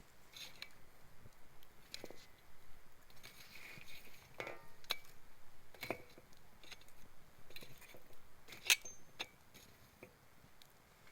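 Wood fire crackling: irregular snaps and pops from burning branches, with one sharp pop near the end.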